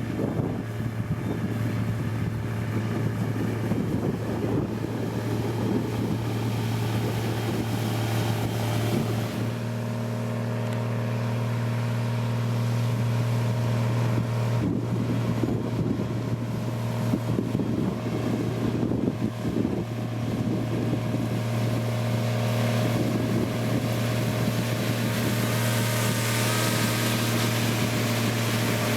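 Diesel engine of a heavy road-construction machine running steadily, a constant low drone that holds its pitch.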